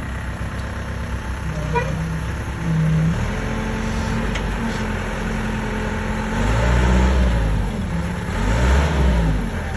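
Motor vehicle engine running, with louder swells a few times where its pitch shifts.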